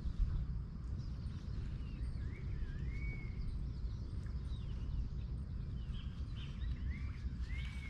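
Birds calling with short whistled notes that bend up and down, several times, over a steady low rumble.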